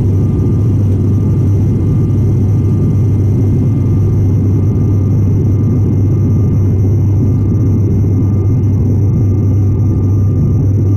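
Airliner landing in rain: a loud, steady low rumble with a few thin steady whining tones above it; the higher hiss eases off about four seconds in.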